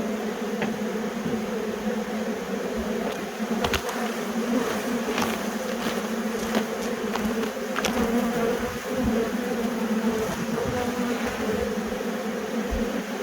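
A swarm of honey bees buzzing in a dense, steady hum, with a few light clicks over it.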